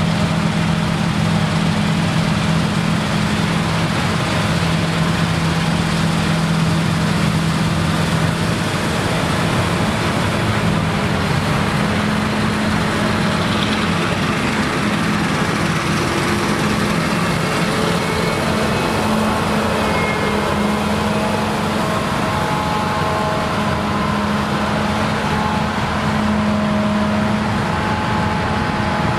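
Claas Lexion combine harvesters running steadily while harvesting rye: a dense, even machine drone with a steady low engine hum.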